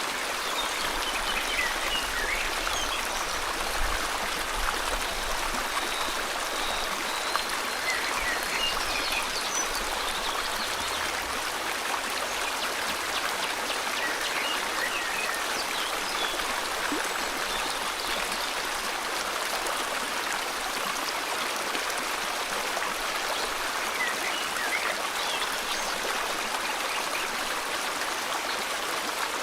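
River water flowing steadily, a continuous even rush, with faint bird chirps now and then.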